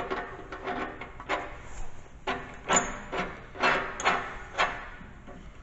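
Irregular metallic clicks, knocks and scraping from carriage bolts and washers being worked into the holes of a snow plow mount.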